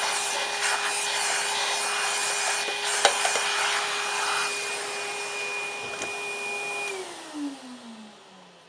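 An electric motor runs steadily with a rushing, hissing airflow, then is switched off about seven seconds in, its pitch falling as it winds down to a stop.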